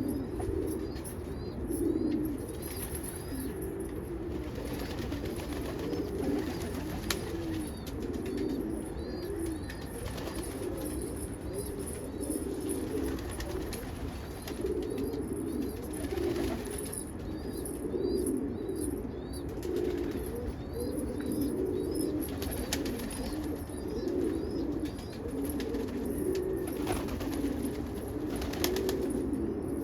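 Pigeons cooing continuously, several voices overlapping in a steady low warble, with runs of short high chirps from smaller birds.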